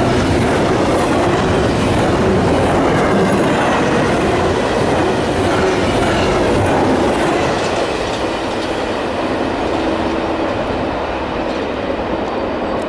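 CSX double-stack intermodal container train passing at speed, its steel wheels and container cars rushing by in a steady loud roll. The noise eases a little about eight seconds in as the last cars go by and the tail of the train recedes.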